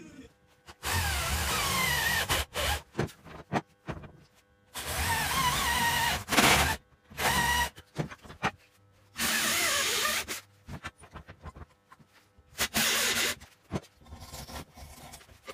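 Electric drill boring into wood in about six separate bursts, each a second or so long, the motor's whine rising and falling as it bites, with short knocks of handling between bursts.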